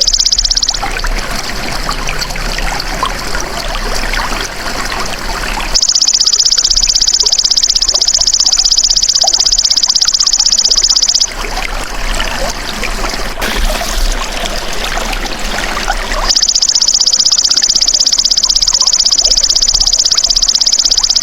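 Belalang emas (golden grasshopper) stridulating: a loud, high, rapid buzzing trill in bouts about five seconds long. The trill stops just under a second in, returns at about six seconds, stops again at about eleven and resumes at about sixteen, with trickling, flowing water underneath.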